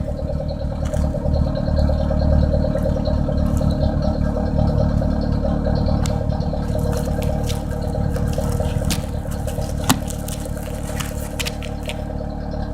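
A 1991 Toyota Corolla's 1.6-litre inline-four engine idling steadily, heard at the exhaust, with a few light clicks of handling noise.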